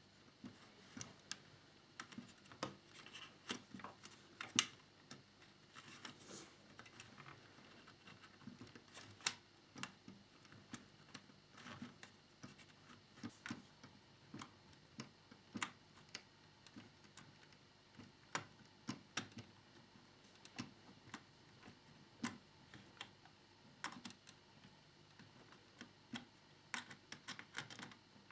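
Faint, irregular small clicks and taps of plastic parts and a small screwdriver being handled while a screw is worked into the upper fairing of a Yamaha YZR-M1 scale model motorcycle.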